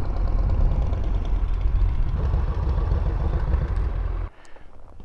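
Motorcycle engine running with a steady low rumble, which stops abruptly about four seconds in.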